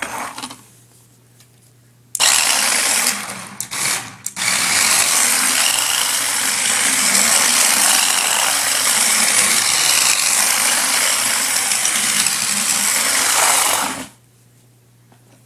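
All-wheel-drive toy RC drift car driving and drifting: its small electric motor and gears run with a loud, steady whirring buzz as the tyres slide. It starts about two seconds in, drops off briefly around four seconds, and cuts off near the end.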